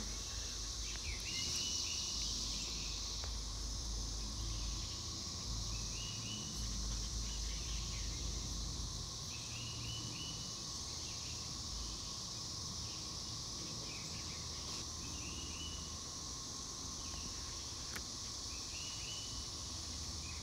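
Periodical cicada chorus: a steady, unbroken drone from a mass emergence, with a high hiss above it.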